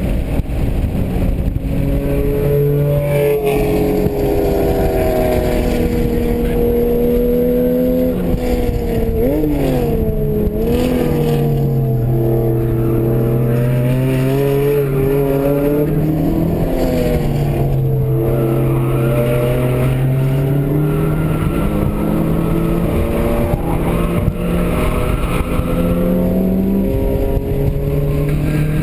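A Mitsubishi Lancer Evolution VIII's turbocharged 2.0-litre four-cylinder heard from inside the cabin at track pace. The engine note climbs under acceleration and drops back on shifts and braking. Its pitch wavers quickly around ten seconds in.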